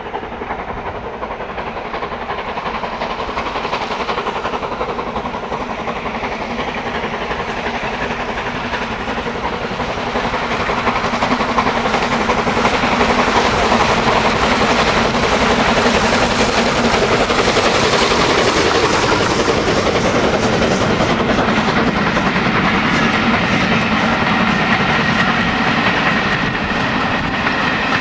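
Steam-hauled train running on the line, its wheels clattering over the rail joints, growing louder about a third of the way in as it draws close.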